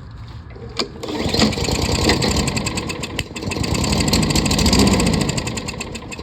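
A 22-inch Toro Recycler lawn mower's single-cylinder engine catches about a second in and runs for roughly five seconds, rough and uneven, then tapers off near the end. It is running on a shot of carb cleaner sprayed into the intake, which the mechanic takes as the sign of bad fuel in the carburetor.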